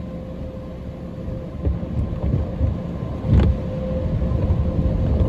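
Car cabin rumble as the car moves into an automatic car wash, with a steady hum and one sharp knock about three and a half seconds in; the rumble grows a little louder near the end.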